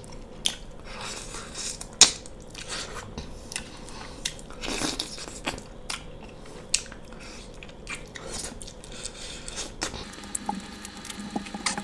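Close-miked chewing and wet mouth sounds while eating mutton curry by hand, with irregular sharp clicks and smacks as meat is picked off the bone. The loudest is a single sharp click about two seconds in.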